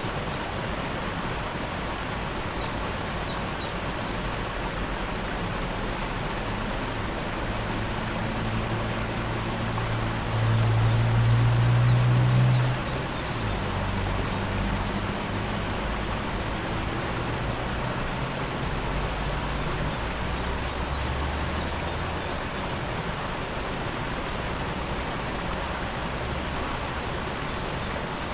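Steady rushing of a waterfall, with short high bird chirps in quick runs of three to five every few seconds. A low engine-like drone swells through the middle, loudest for about two seconds near the halfway point, then fades.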